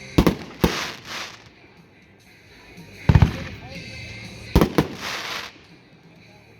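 500-gram consumer fireworks cake firing: three clusters of sharp bangs, each followed by a brief hissing crackle.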